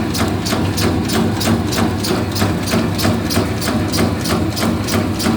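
Meatball-forming machine running: a steady motor hum under regular clicks, about four a second.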